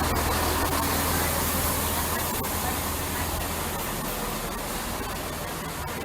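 GWR Class 165 diesel multiple unit pulling into the platform: a steady low engine hum under a broad rumble and hiss that slowly fades. The low hum drops out about four seconds in.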